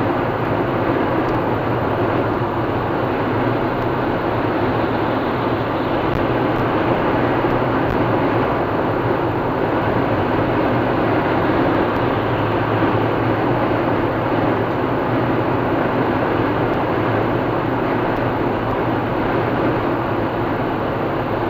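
A car driving at steady speed on a motorway: continuous, even tyre and engine noise with no change in pitch or level.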